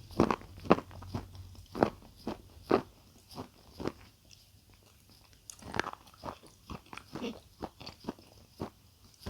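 Close-miked crunchy eating: crisp bites and chewing crunches in an irregular run, with a brief lull near the middle.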